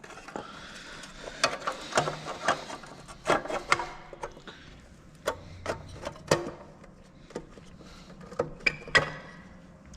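Hands working on tractor parts: scattered sharp clicks and knocks with rubbing and scraping between them.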